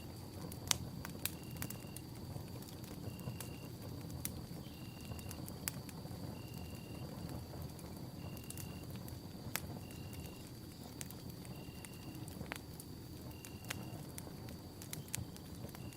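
Campfire burning with a steady low rumble of flames and scattered sharp crackles and pops of wood. Over it run a faint steady high tone and short chirps repeating about every one and a half seconds.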